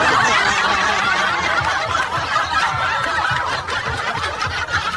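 People laughing and snickering, loudest at the start and slowly tapering off.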